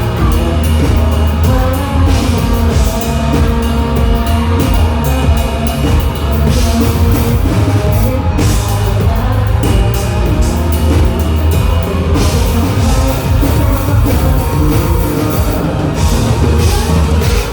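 Live rock band playing loud at full volume: drum kit with steady cymbal hits, heavy bass and electric guitars, with some singing.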